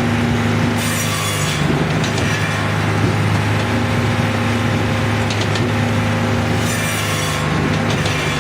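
Firewood processor with a circular saw and hydraulic splitting wedge running with a steady hum from its power unit. Two short high-pitched bursts as it works the wood, one about a second in and one near the end.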